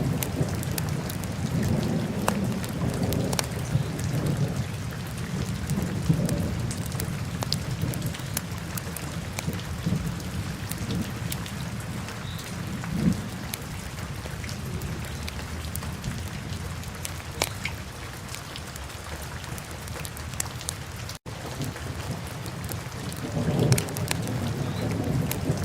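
Wood fire burning in a fireplace: a steady low rush of flames with scattered sharp crackles and pops. The sound cuts out for an instant about 21 seconds in.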